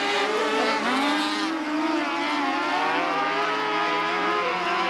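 A field of small open-wheel race-car engines running hard in a race, several at once, their pitches rising and falling as the cars accelerate, lift and pass.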